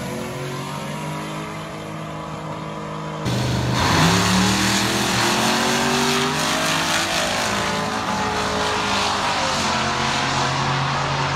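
Drag racing car engine at high revs. About three seconds in the sound cuts abruptly, then an engine climbs in pitch as it accelerates hard and keeps running at full throttle.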